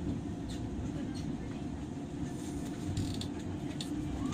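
Interior sound of a JR 103 series electric train: a steady low rumble with a faint steady hum and a few light clicks, and a short rising squeal near the end.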